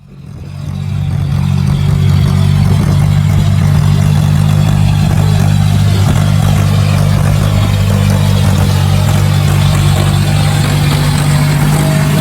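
Tractor engine running at a steady, even speed, a low drone that fades in over the first second or two.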